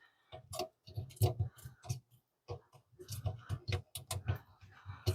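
Irregular clicks and light knocks, a few a second, some with a dull thud: a part being handled and worked into place on a truck by hand.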